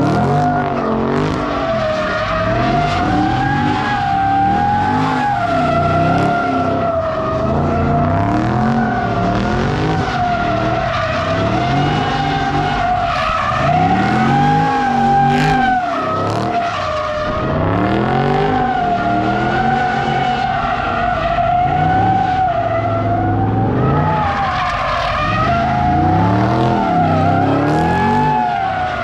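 A car spinning donuts: tyres squealing in a steady high screech that wavers a little, over an engine revving up and down every two or three seconds.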